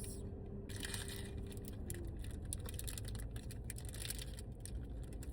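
Close-up eating sounds: irregular soft clicks and crackles of food being handled and chewed over a low steady background rumble, starting about a second in.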